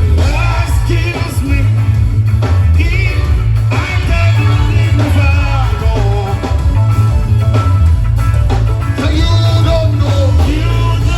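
Live gospel praise music: a band with a heavy, steady bass line under singing voices.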